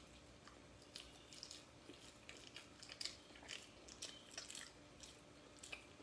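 A person chewing a mouthful of cheesy bread: faint, quick, wet crackling chewing noises that start about a second in.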